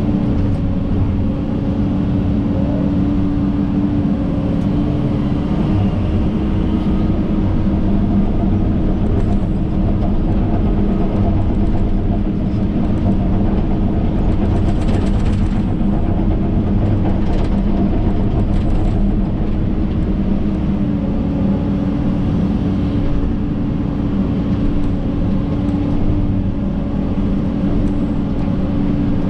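John Deere 130G excavator's diesel engine running steadily under load, a constant drone that drops slightly in pitch about two-thirds of the way through.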